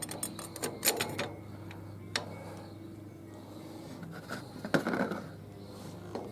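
Steel and friction clutch plates of an automatic transmission clicking and clinking as they are handled and stacked into the clutch pack: a run of light clicks in the first second or so, a single sharp click about two seconds in, and a short rattle around five seconds, over a steady low hum.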